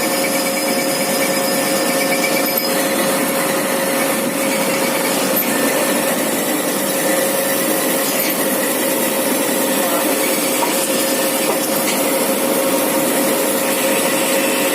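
Metal lathe turning a crankshaft with a carbide CNMG insert: a steady hiss of the cut over a constant machine hum.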